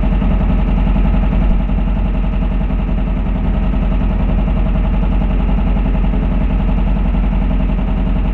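Air-cooled VW flat-four of a Class 5-1600 Baja Bug idling steadily, running on only three of its four cylinders.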